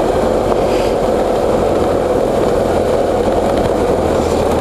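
BMW F800GS parallel-twin motorcycle engine running under way, mixed with steady wind rush on a helmet-mounted microphone.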